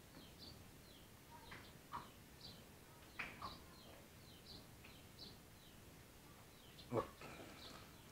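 Faint, scattered high chirps of small birds, with one sharp knock about seven seconds in.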